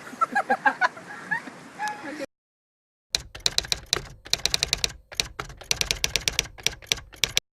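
A rapid, irregular run of sharp clicks, like typewriter keys, starting about three seconds in, pausing briefly near the middle and stopping abruptly. Faint voices come before it.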